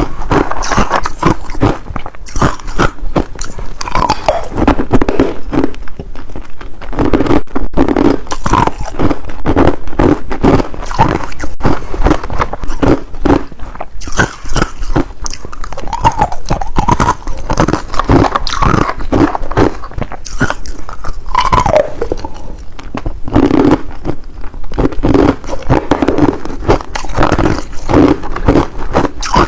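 Ice being bitten and chewed close to the microphone: a fast, continuous run of sharp crunches and cracks as the cubes break between the teeth.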